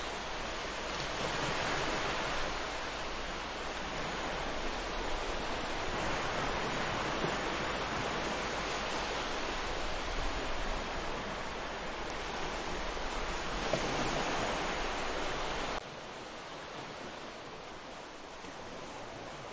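Ocean surf washing onto a beach, a steady rush that swells and eases as waves break, over a low rumble. About sixteen seconds in, the sound drops suddenly to a quieter wash and the rumble stops.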